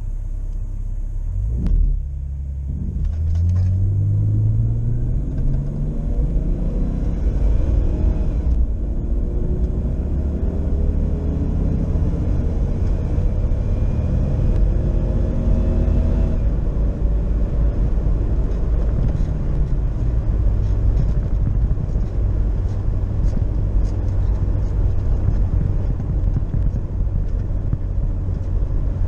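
Chrysler PowerTech 4.0 L inline-six engine accelerating hard at full throttle, its pitch climbing in three stages as the four-speed automatic shifts up. About halfway through the throttle lifts and it settles into a steady low drone with road noise.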